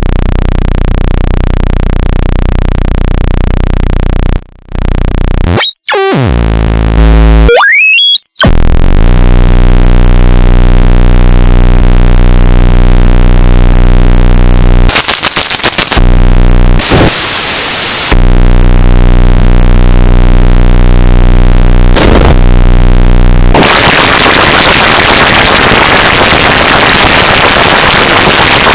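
Loud electronic buzzing tone, broken about six seconds in by a falling and then a rising pitch sweep, and later by short bursts of hiss. It ends in a steady, loud hiss like white noise.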